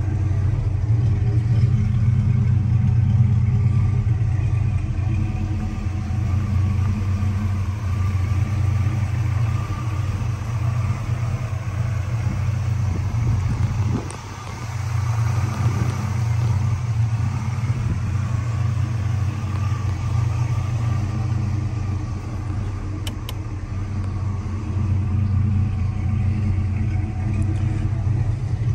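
1979 Pontiac Trans Am's Oldsmobile 403 V8 idling steadily, briefly quieter about halfway through.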